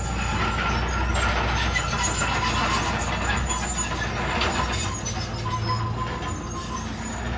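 Komatsu D31PX bulldozer's diesel engine running steadily under work, with a low hum and mechanical clatter and whine from the machine as it grades.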